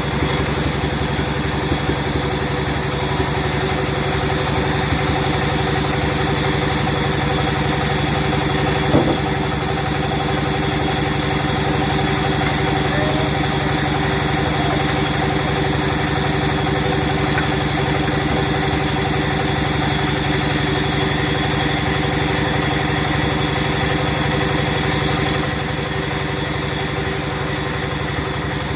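Sawmill machinery running steadily, a constant engine-like drone with a stack of steady tones. There is a single short knock about nine seconds in, and the level drops slightly near the end.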